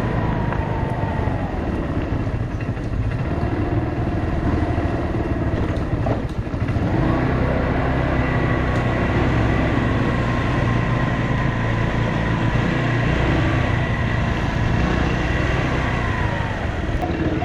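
Motorbike engine running while riding, its pitch rising and falling with the throttle, with a brief drop in the engine note about six seconds in.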